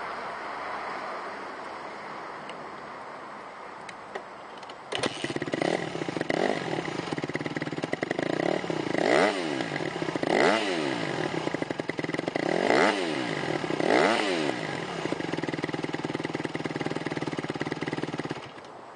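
2008 Honda CRF150R's single-cylinder four-stroke engine firing up on the kickstart about five seconds in. It idles with several quick throttle blips, then shuts off suddenly just before the end.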